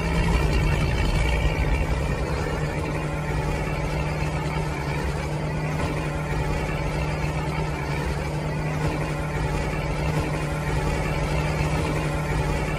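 Model toy tractor's motor running with a steady, even hum as it pulls a disc harrow through sand.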